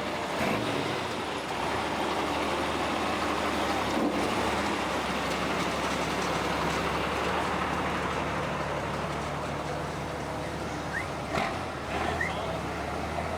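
A car engine running steadily at idle, with a low, even hum under general background noise.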